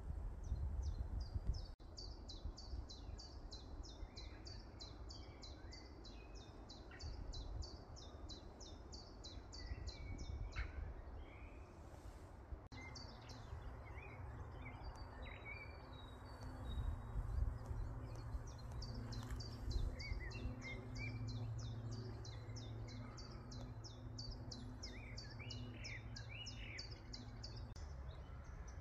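Songbirds singing: one bird repeats a fast series of high, downward-sweeping notes, about three or four a second, for several seconds at a time, twice, with scattered chirps from other birds around it. A low rumble runs underneath, and a steady low drone sounds through the middle part.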